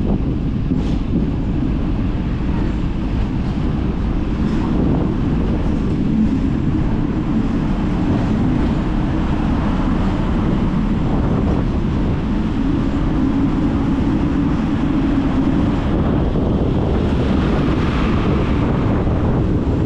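Hong Kong double-decker tram running, a steady low rumble with wind buffeting the microphone.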